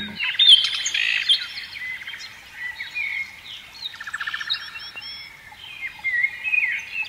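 Several birds chirping, with overlapping short calls, quick trills and whistled notes.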